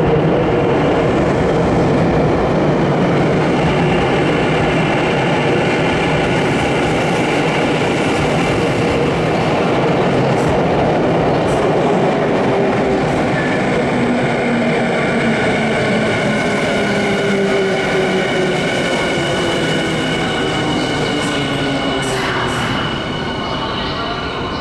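Electric commuter train running along an underground station platform, a loud steady rumble of wheels and running gear with motor whine slowly falling in pitch as the train slows; the sound eases off near the end.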